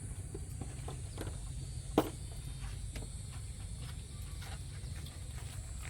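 One sharp knock about two seconds in, with a few faint taps around it. Under it runs a steady low rumble and a steady high insect drone.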